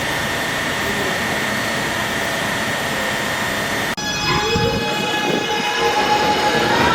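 New York City subway train running with steady rail noise. After an abrupt cut about four seconds in, a train gets under way with a motor whine rising slowly in pitch over the wheel rumble.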